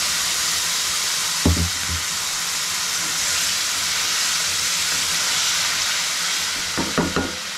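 Ground tomato puree sizzling with a steady hiss in hot oil in a kadai, stirred with a wooden spatula. The spatula knocks against the pan about a second and a half in, and a few times near the end.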